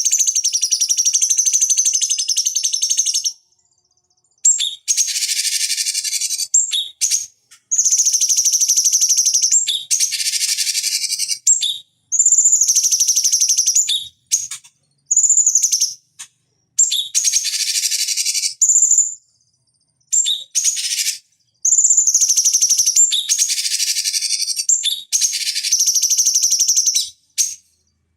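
Cucak cungkok singing: loud, fast phrases of chattering song with a high whistled note running through each, one to three seconds long, separated by brief pauses.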